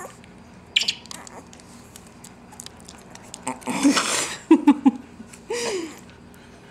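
Puppy's mouth smacking and clicking as she works to spit out her medicine, with a hissing sputter about four seconds in and short voice sounds just after.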